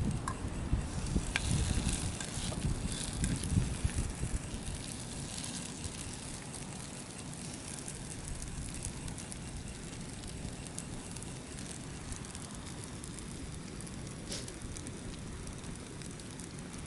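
Campfire crackling with scattered sharp pops, with gusty wind rumbling over the first few seconds and then easing.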